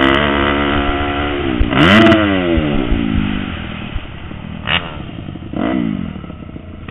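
Motocross bike engines revving hard and dropping with throttle and gear changes; a sharp rev peak about two seconds in. The engine sound then grows fainter, with brief revs from bikes further off.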